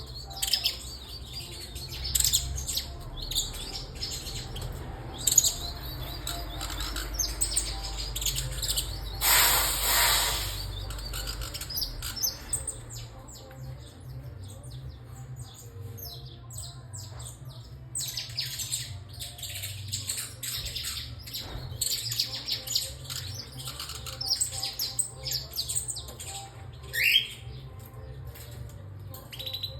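Several saffron finches chirping, with many short high chirps and calls throughout and a brief rising call near the end. About nine seconds in comes a loud rustling noise lasting about two seconds.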